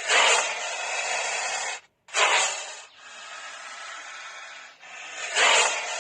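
Loud hissing without pitch, in four long stretches that each start loudest and then ease off, with a brief break about two seconds in.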